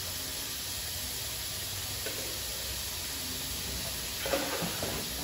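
Blended spice paste sizzling steadily in hot oil in a wok. A few light knocks come about four seconds in.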